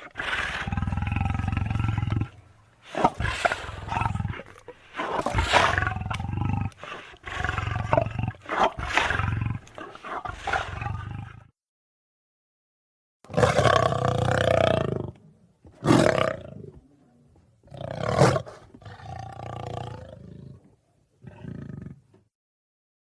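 Deep, demonic roars and growls from a sound-effect creature voice, in a run of separate bursts one to two seconds long with a short pause near the middle.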